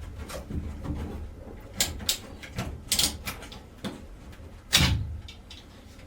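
A series of irregular knocks and clunks, the loudest about five seconds in, over a low steady rumble.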